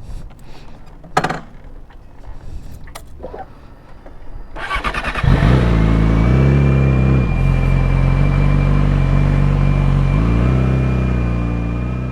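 A few clicks and knocks, then a motorcycle engine is started about five seconds in and keeps running steadily, its pitch dipping and rising slightly a couple of times.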